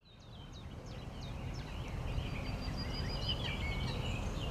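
Woodland birdsong fading in over a low steady rumble: a quick run of short descending chirps, then warbling, twittering calls.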